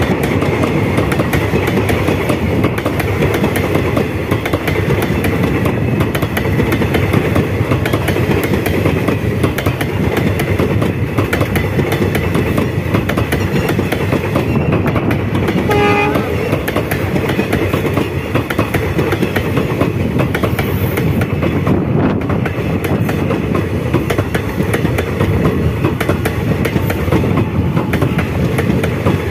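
Passenger coaches of an Indian Railways express running through at speed on the adjacent track: a steady loud rush of wheels on rail with rapid clatter over the joints. A short horn note sounds about halfway through.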